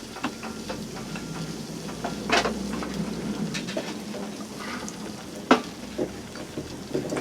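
Food frying in a pan on a wood stove: a steady sizzle with scattered sharp pops and crackles, the loudest about two and a half and five and a half seconds in.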